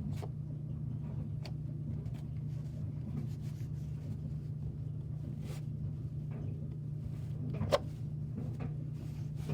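Scattered light clicks and knocks, with one sharper click about three quarters of the way through, over a steady low hum.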